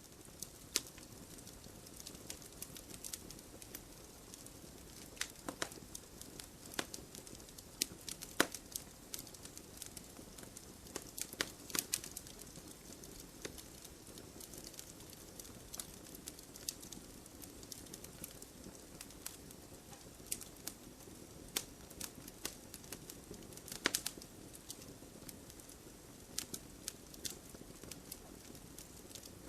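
Burning firewood crackling: irregular sharp pops and snaps, a few louder ones standing out, over a steady low hiss of the fire.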